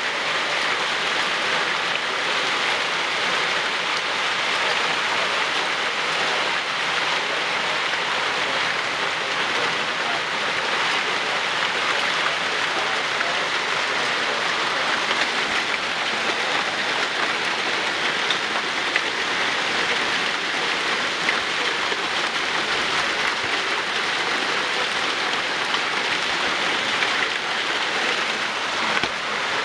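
Heavy, steady rain pouring down during a severe thunderstorm.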